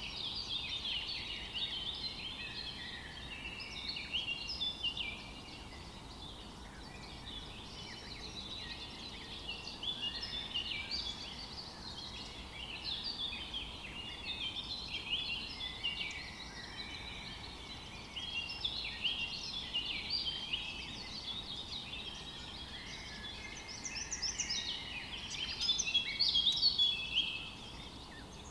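Many small birds chirping at once, a dense continuous chorus of short, high overlapping notes.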